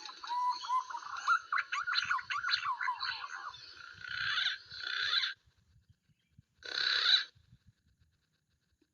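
Small birds chirping and calling in quick rising and falling notes for about five seconds. The sound then cuts off abruptly, and a short burst of calls follows about two seconds later.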